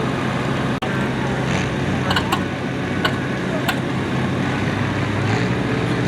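Antique farm tractor engine running steadily, with a few sharp clicks about two to four seconds in.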